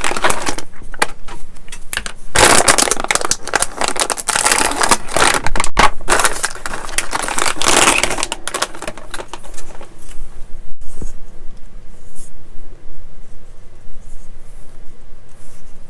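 Plastic model-kit parts being handled: a plastic bag crinkling and rustling as the sprues are taken out, with light clicks and scrapes of plastic. It is busy for about the first ten seconds, then thins out to occasional faint handling.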